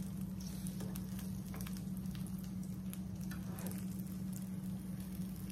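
Butter sizzling under a grilled cheese sandwich frying in a nonstick skillet, over a steady low hum. Light scrapes and taps of a slotted spatula pressing the sandwich down come now and then.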